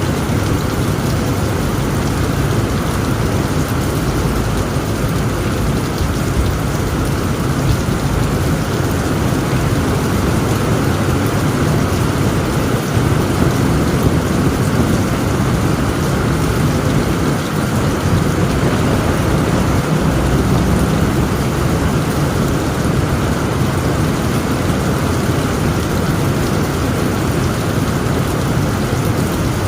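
Heavy rain falling steadily on a tent roof, with a constant low rumble of thunder underneath.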